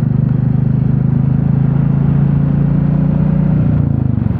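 Royal Enfield Classic 350's single-cylinder engine running steadily while being ridden, its firing pulses closely spaced, with a brief dip in the note a little before the end.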